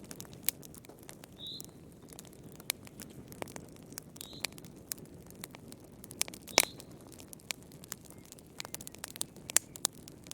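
Wood fire crackling in a fireplace: irregular sharp pops and snaps over a steady low rush of flame, the loudest pop about two-thirds of the way through. A few brief high-pitched squeaks sound among the pops.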